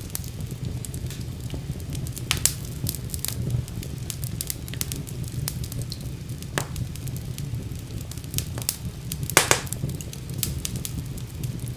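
Wood fire burning in a fireplace: a steady low rumble of flames under frequent sharp crackles and pops, the loudest pop about nine seconds in.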